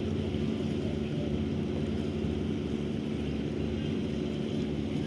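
A ship's engine running steadily: a constant low drone with a hum.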